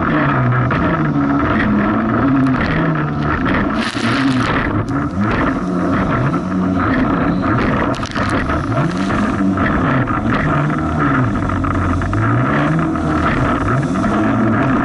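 Jet ski engine running under way, its pitch repeatedly rising and falling as the throttle and load change over rough waves. A brief hiss about four seconds in.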